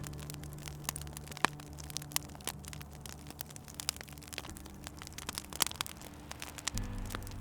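Wood fire crackling, with irregular sharp pops and snaps. Under it is a low, steady drone of held tones that shifts pitch near the end.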